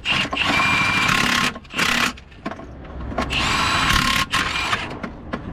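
An electric power tool's motor whirring in two bursts of about a second and a half each, with a short blip between them; its whine climbs as it spins up at the start of the second burst.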